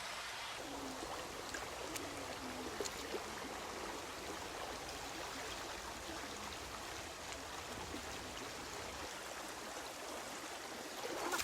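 Mountain valley stream flowing steadily, an even rushing of water.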